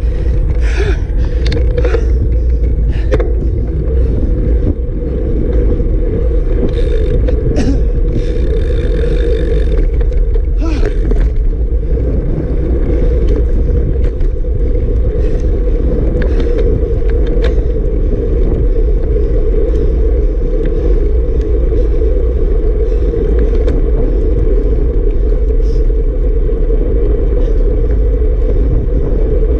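Strong wind buffeting the microphone: a loud, steady low rumble, with scattered knocks and scrapes during the first ten seconds or so.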